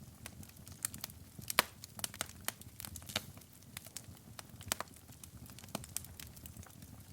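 Wood fire crackling in a fireplace: irregular sharp pops and snaps over a low, steady rumble of the flames, with one louder pop about one and a half seconds in.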